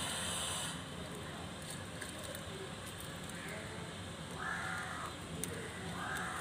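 A bird calling twice in the background, short harsh calls about four and a half and six seconds in, over a steady low hiss with faint handling clicks.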